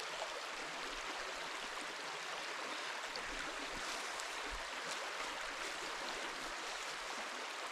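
Small creek flowing, a steady rushing of water.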